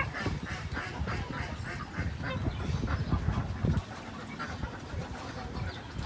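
A flock of ducks and geese calling together: many short overlapping quacks and honks, busiest in the first few seconds and thinning out after.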